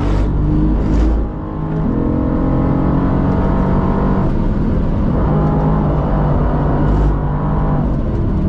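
Mercedes-AMG GT R's twin-turbo V8 revving hard at track speed, heard from inside the cabin; the revs drop and build again about a second in and near four seconds, as at gear changes, with a short crack about seven seconds in.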